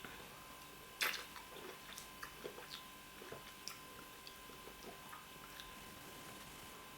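Close-up eating sounds of fufu with oha soup: soft chewing, lip smacks and wet squishy mouth noises, with one sharper click about a second in. The small noises die away near the end.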